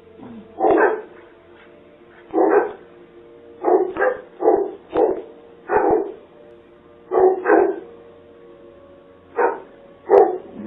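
A dog barking repeatedly, about eleven barks in uneven runs, some in quick pairs, heard through a doorbell camera's microphone.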